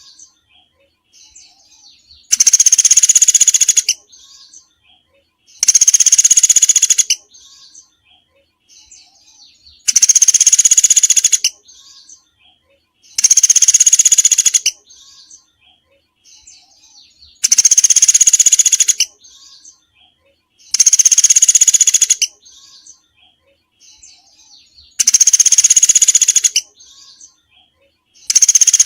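Recorded small songbird's song played as masteran training audio: a loud, high-pitched phrase about a second and a half long, repeated eight times about every three and a half to four seconds, with faint soft chirps in the gaps.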